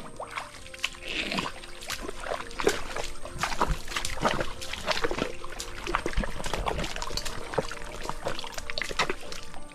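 Splashing and sloshing in shallow, muddy pond water: many irregular wet splashes, under faint background music.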